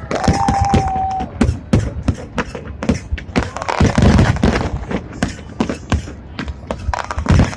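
Fireworks going off in an irregular string of sharp bangs and crackles, some deep and booming.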